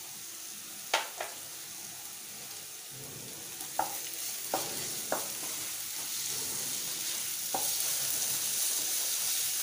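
Chopped onions, curry leaves and ginger-garlic paste sizzling in hot oil in a non-stick kadai, stirred with a wooden spatula that knocks against the pan a few times. The sizzle grows louder as the stirring gets going.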